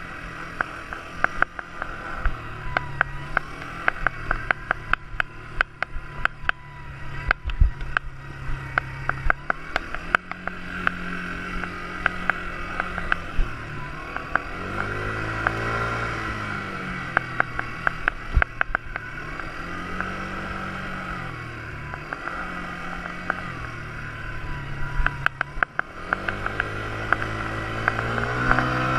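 Quad bike engine running while being ridden, its pitch rising and falling several times with the throttle. Many sharp clicks and knocks sound throughout.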